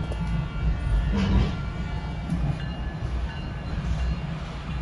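New Jersey Transit passenger train heard from inside the car as it runs along the tracks: a steady low rumble, with a brief louder rush about a second in.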